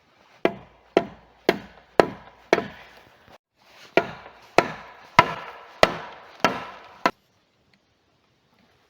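Axe chopping wood: eleven sharp blows, about two a second, five then a short pause then six more, cutting off abruptly.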